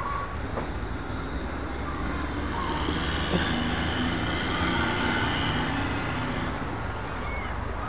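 A steady low outdoor rumble with a hiss that swells a little in the middle, and a few faint seagull calls.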